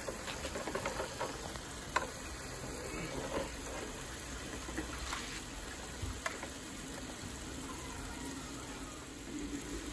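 Water running steadily, a continuous hiss, with a few light clicks about 2, 5 and 6 seconds in.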